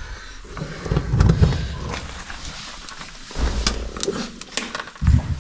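Scuffing and rustling of a caver moving through a rock passage, with a few dull thumps and sharp clicks of gear and hands knocking against rock.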